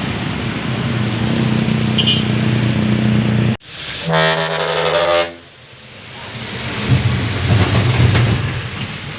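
Loaded Hino 500 dump truck's diesel engine running hard, broken by a loud horn blast of about a second, then the engine building again.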